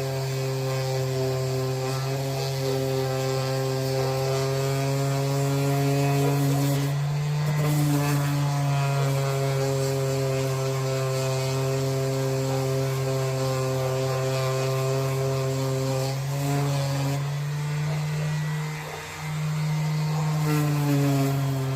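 A power tool running steadily with a constant motor hum, its pitch shifting slightly a few times and its loudness dipping briefly about nineteen seconds in.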